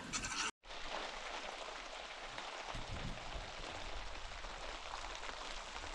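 Heavy rain on the hut's roof, heard from inside: a steady, even rain racket. It follows a brief dropout about half a second in.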